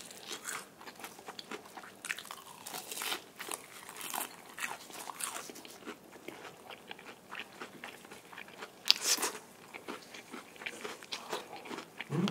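Close-up crunching and chewing of crisp deep-fried battered shrimp with tartar sauce inside: many short crackly crunches, the loudest about nine seconds in.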